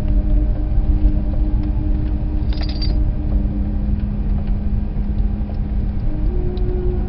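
Car engine running steadily at low speed, a strong low rumble under a steady hum. A brief high squeak sounds about two and a half seconds in.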